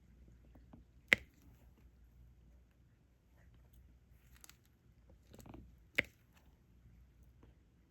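Small clicks and faint rustling of a diamond-painting pen picking up resin drills and pressing them onto the sticky canvas, with two sharp taps about a second in and near six seconds in.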